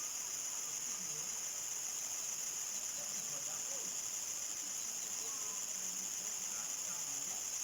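Crickets chirping in a dense, continuous chorus: a steady high trill that holds an even level throughout.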